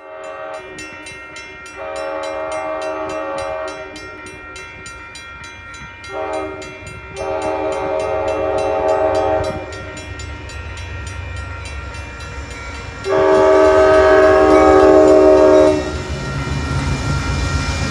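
Train horn sounding three long blasts, the last the loudest, over the rumble of a passing train.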